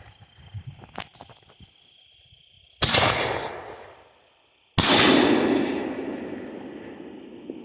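5-inch willow aerial firework shells going off: two sudden loud booms about two seconds apart, the second one louder. Each rumbles and echoes away over a second or more, over a steady chirping of crickets.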